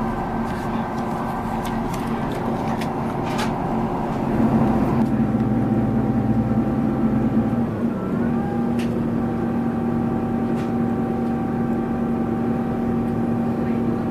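Class 158 diesel multiple unit's underfloor diesel engine and running gear heard from inside the carriage as a steady mechanical drone. The note grows louder and deeper about four and a half seconds in, then changes again with a brief gliding tone around eight seconds. There are a few sharp clicks in the first few seconds.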